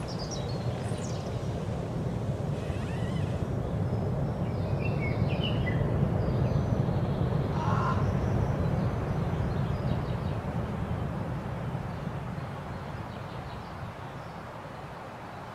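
Scattered bird calls over a low rumble that swells for several seconds and then fades away.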